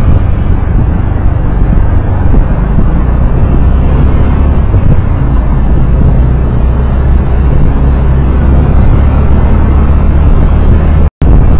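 Loud, steady rumble of a moving road vehicle with wind buffeting on a driving-recorder microphone. A brief dropout to silence comes about eleven seconds in.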